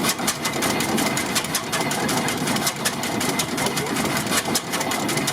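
1927 Eagle 40 HP tractor's hit-and-miss engine running, with a busy, rapid clatter of clicks over a steady mechanical hum.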